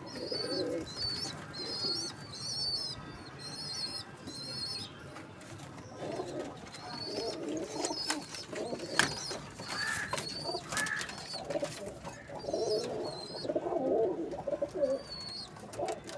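Domestic pigeons cooing in a pigeon house, low throaty coos coming in several bouts. Short high chirps repeat about twice a second alongside them, with a few sharp clicks.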